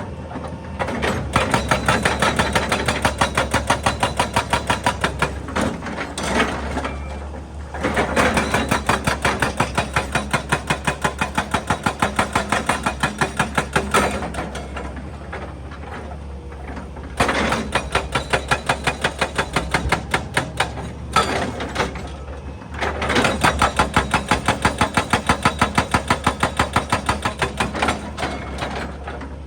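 Excavator-mounted hydraulic breaker hammering rock in four bursts of rapid, evenly spaced blows, each lasting several seconds, with short pauses between them. The excavator's diesel engine runs under it throughout.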